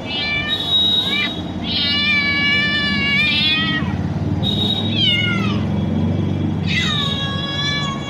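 Domestic cat meowing repeatedly, about four meows: a long, level one in the first half and shorter ones that fall in pitch near the middle and end.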